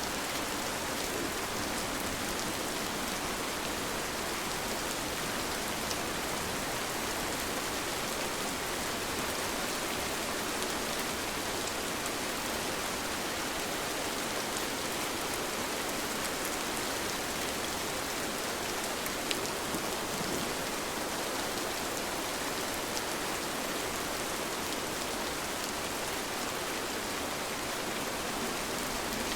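Steady rain falling: an even hiss of rain with scattered drop ticks, and one slightly louder drop about two-thirds of the way through.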